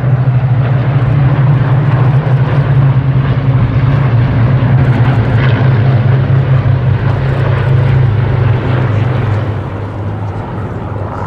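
Hawker Hurricane's Rolls-Royce Merlin V12 piston engine running loud and steady with a low drone, easing off after about nine seconds.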